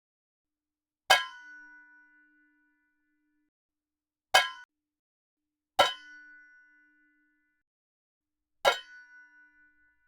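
A metal pot lid struck four times. Each strike is a sharp clang followed by a brief ring of a few clear tones that fade away; the second ring cuts off short.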